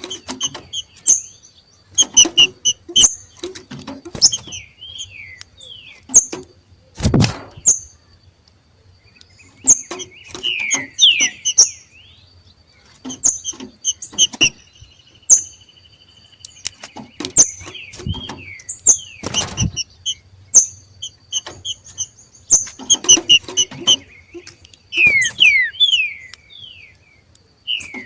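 Green-winged saltators (trinca-ferro) giving their 'macheado' calls: bouts of sharp clicking notes and short falling whistles, repeated every few seconds with brief pauses between. The macheado is the call these birds make when entering breeding condition. A faint steady high tone runs underneath.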